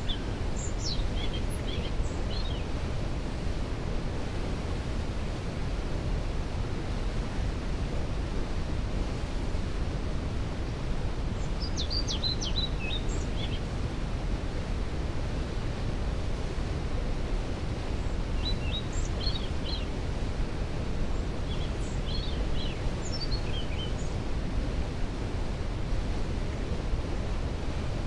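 Waterfall rushing steadily, a constant even roar of falling water. Songbirds sing a few short, high chirping phrases over it, near the start and a few times in the second half.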